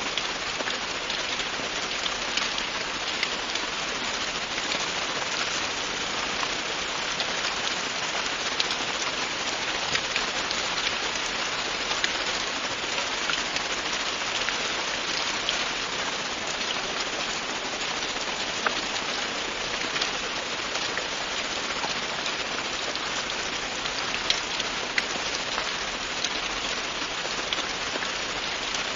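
Steady, constant rain falling, an even hiss with scattered individual drop ticks.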